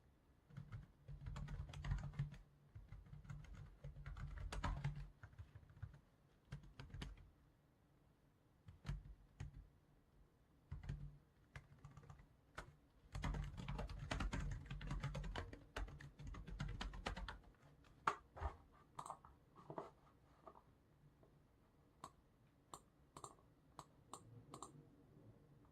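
Typing on a computer keyboard in bursts of rapid keystrokes with short pauses between them, giving way to scattered single clicks in the last several seconds.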